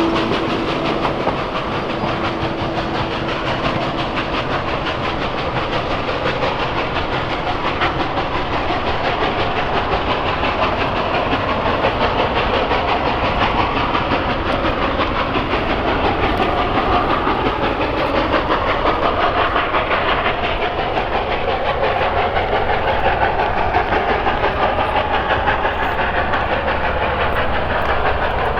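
Steam-hauled passenger train running, a steady clatter of wheels clacking over the rails.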